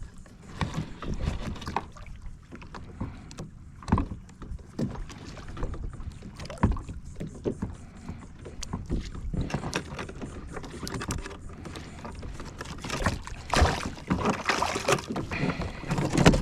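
Irregular knocks, bumps and clicks of gear being handled on a fishing kayak, over a low background hiss.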